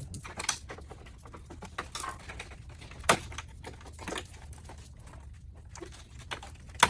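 Scattered clicks, taps and knocks of plastic bumper and grille parts and clips being handled and fitted, with a sharper knock about three seconds in and another near the end.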